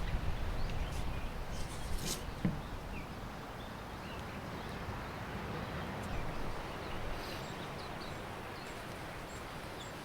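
Steady outdoor coastal background noise, heavier in the first couple of seconds, with faint small bird chirps scattered through and a brief click about two seconds in.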